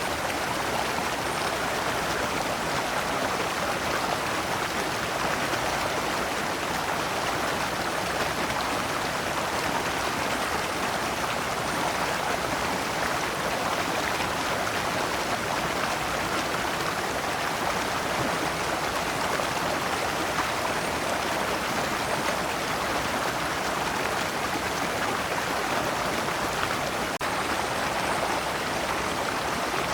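Shallow rocky stream flowing steadily over stones, with a continuous splashing rush of small cascades.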